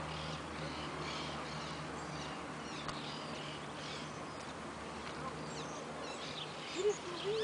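Small birds chirping, many brief twitters overlapping, with a faint steady low hum beneath and a few short, lower calls near the end.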